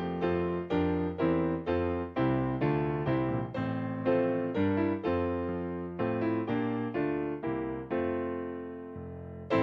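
Piano music: a slow piece of chords struck about twice a second, each ringing and fading. Near the end one chord is held and dies away before the next comes in louder.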